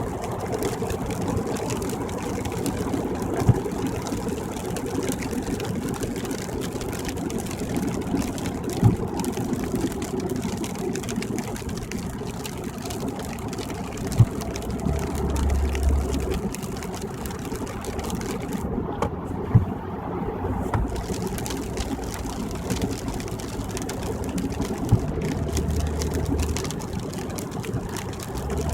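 Steady road noise inside a car cabin on a wet freeway: tyre noise and engine hum, with a few short sharp clicks and low thumps scattered through it.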